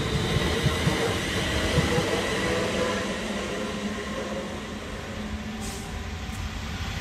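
London Northwestern Railway electric multiple unit running past and away along the platform, its wheels clicking over the rail joints. The sound fades as the train draws off.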